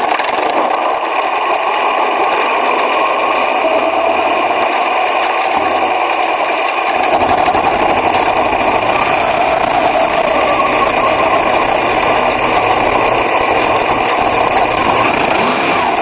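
Racing car engine running hard at high revs, a loud, steady buzzing drone whose pitch drifts only slightly; a deeper rumble joins in about seven seconds in.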